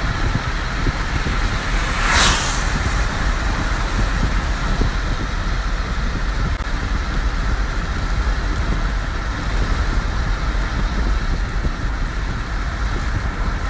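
Car interior noise while driving on a wet road: a steady rumble of engine and tyres with road hiss, and one brief louder hiss about two seconds in.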